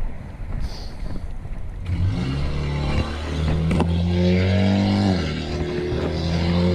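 A motor vehicle engine running close by, its hum coming in about two seconds in and drifting up slightly in pitch, with a brief dip near five seconds. Before it there is only a rushing noise.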